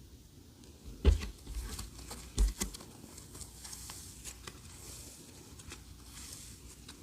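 Clear slime being squeezed and pressed by hand, with two louder squishy pops about a second in and again a second later, then a run of small crackling clicks and squelches.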